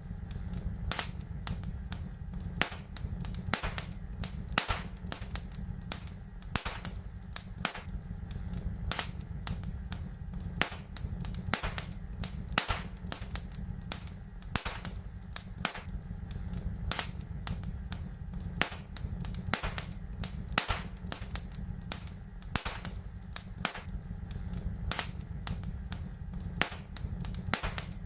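Wood fire in a fireplace crackling: irregular sharp pops and snaps several times a second over a steady low rumble.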